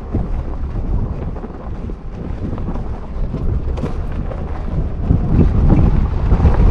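SUV on snow chains driving up a snowy mountain track: a low rumble of engine and tyres with wind buffeting the microphone, growing louder about five seconds in.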